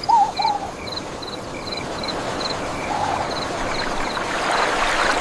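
Cartoon nature ambience: insects chirping in small regular pips, about two a second, over a rushing wash of noise like surf that swells toward the end.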